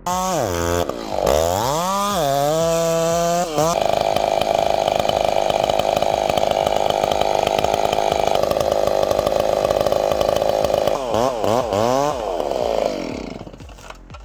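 Chainsaw revving up and down, then held steady at high revs for about seven seconds. It revs up and down again and dies away near the end.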